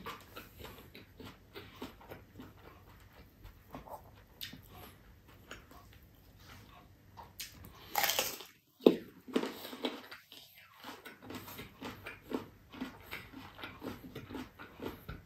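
Close-up mouth sounds of eating with the hands: wet chewing and lip smacking, with a louder bite into a slice of mango about eight seconds in.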